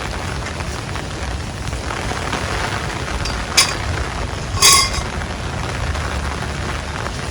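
Steady rain noise with a low rumble, broken in the middle by two short sharp clinks about a second apart.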